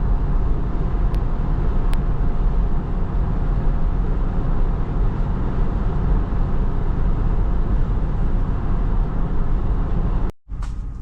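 Steady road and wind noise of a car driving, heard from inside the cabin, strongest at the low end. It drops out briefly about ten seconds in.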